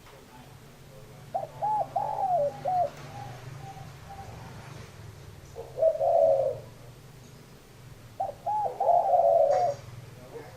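Spotted dove cooing: three phrases, the first and last made of several short coos that run into a longer note, the middle one a single shorter coo. A faint low hum lies underneath.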